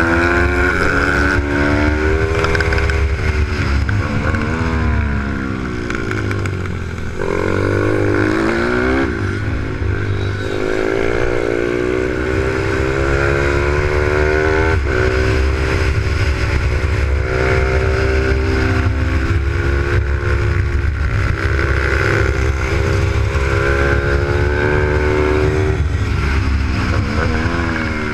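Single-cylinder engine of a Z155 supermoto pit bike at racing speed, revving up hard and dropping back again and again as it accelerates, changes gear and shuts off for corners.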